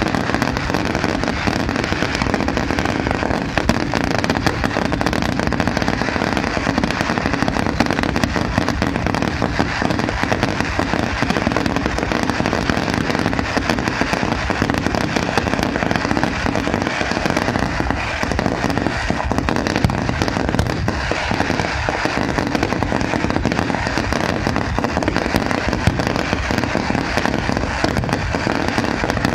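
Fireworks going off in a dense, unbroken crackle of many small bangs, steady in loudness throughout.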